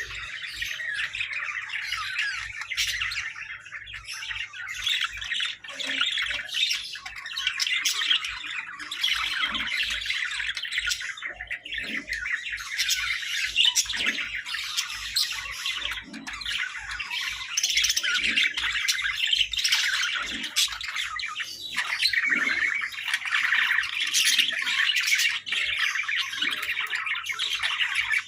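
Hagoromo budgerigars chattering and chirping, a dense, continuous warble with squawks mixed in.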